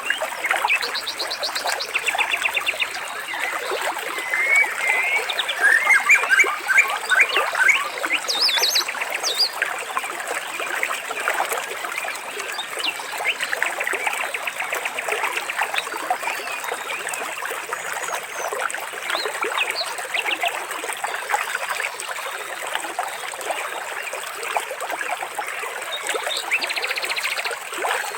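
Water trickling and splashing steadily, with birds calling over it in short trills and quick rising and falling notes every few seconds.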